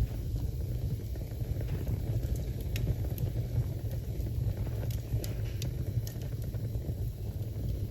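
Wood fire burning in a fireplace: a steady low rumble of the flames with scattered sharp crackles and pops from the burning logs, most of them a little past the middle.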